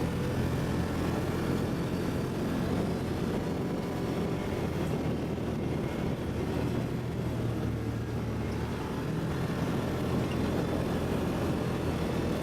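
ATV engine running steadily while riding: a continuous low engine hum whose pitch shifts slightly now and then.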